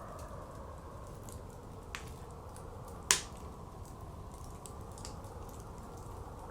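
Wood fire crackling, with scattered small ticks and sharp pops: one loud pop about three seconds in and another at the very end. Under it runs a steady blizzard wind.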